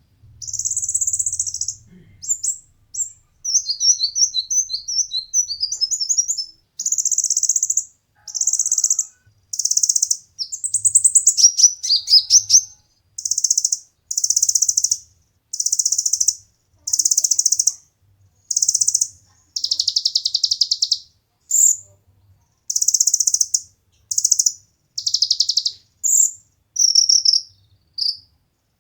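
Konin songbird singing: a string of high, rapid trilled phrases, each about a second long, with short pauses between them.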